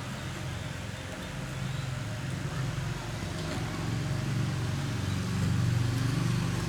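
Low, steady motor hum that grows a little louder past the middle.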